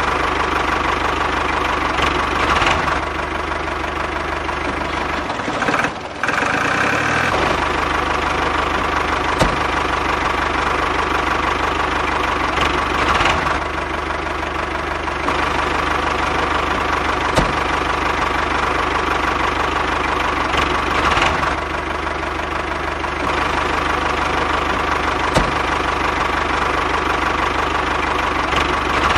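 A small motor running steadily with a constant hum and whine, with a few sharp clicks and a brief drop about six seconds in.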